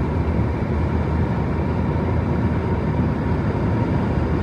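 P-51D Mustang's Packard Merlin V-12 engine running, a steady low rumble.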